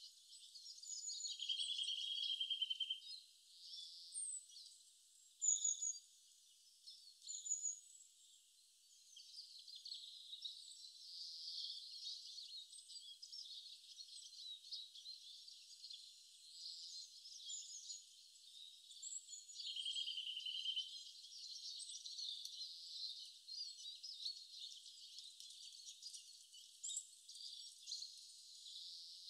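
Faint high-pitched bird chirps and short trills over a thin hiss, with no low sounds at all. The same buzzy trill comes twice, near the start and about two-thirds through.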